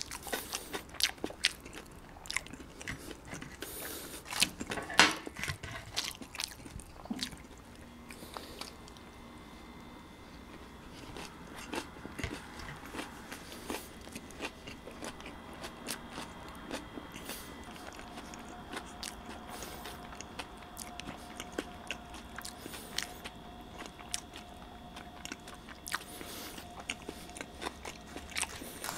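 Close-up mouth sounds of eating a lettuce-filled sandwich roll: crisp crunching bites, loudest about five seconds in, then softer, steadier chewing.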